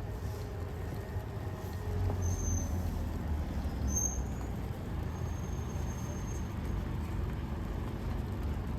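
Steady low rumble of outdoor street ambience, with two brief high chirps about two and four seconds in.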